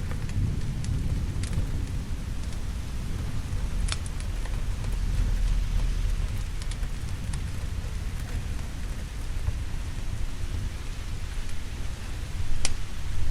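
Steady heavy rain with a low rolling thunder rumble underneath, and a few sharp crackling pops, the clearest about 4 seconds in and near the end.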